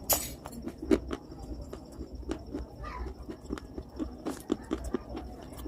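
Close-miked chewing: a person biting and crunching hard, brittle pieces of baked clay-type material, a quick irregular run of crisp crunches and clicks. A short hissing rush comes right at the start and again about four and a half seconds in.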